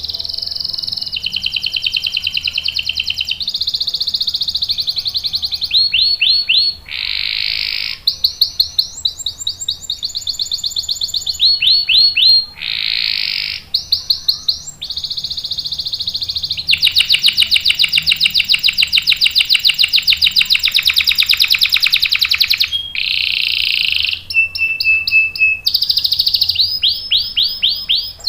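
Domestic canary singing a continuous song of long rolls: fast trills of rapidly repeated notes, switching pitch and pattern every second or two, with one long even roll of about six seconds in the second half.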